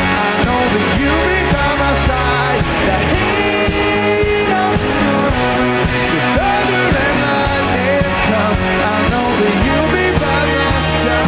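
Rock band playing live at full volume: electric guitars, bass and drums.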